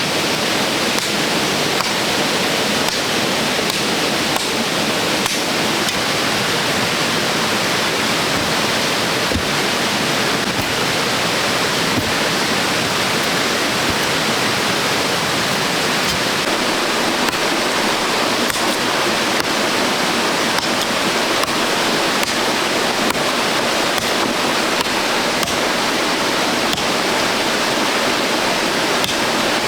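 Steady, even rushing noise of water, with faint scattered ticks over it.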